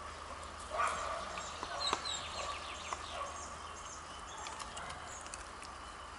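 Small birds chirping in the background, with a couple of short louder knocks or scuffs in the first two seconds.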